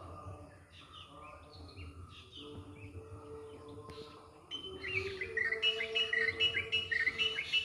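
Morning bird chorus: several songbirds chirping and calling. About halfway through, one louder bird starts a fast run of repeated short, falling chirps, over a faint steady lower tone.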